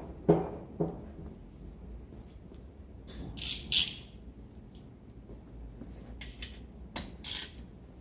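Brake pads and caliper parts being handled during a pad-and-shim greasing job: a few sharp knocks in the first second, then brief high scraping sounds about three seconds in and again near the end.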